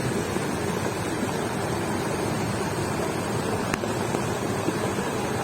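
Steady rush of a swollen flood stream pouring across the road, the water heavy enough to lift stones.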